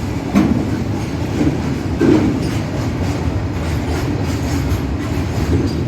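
Goods train on the track beside the platform: a steady low rumble of wagons and wheels on rails, with two louder clanks, one about half a second in and one about two seconds in.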